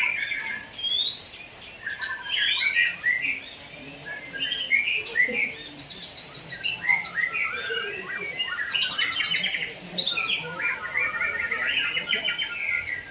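Caged songbirds in a singing contest, with several birds singing at once in fast, varied chirps, rising and falling whistles and rapid trills.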